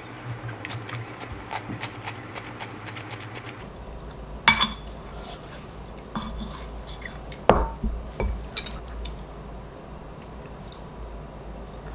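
Cutlery and dishes clinking: light tapping in the first few seconds, then a few sharp clinks, the loudest about a third of the way in and two more near the middle.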